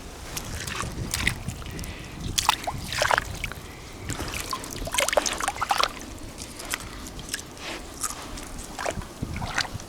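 Pebbles on a lake shore clicking and crunching at irregular intervals, with water sloshing.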